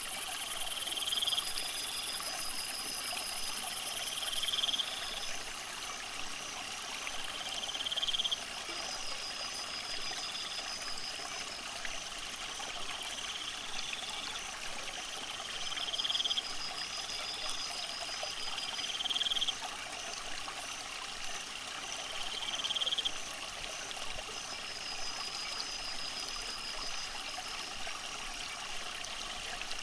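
Steady trickling water, with short high rising chirps repeating every three to four seconds over it and a high pulsed buzz in the first few seconds.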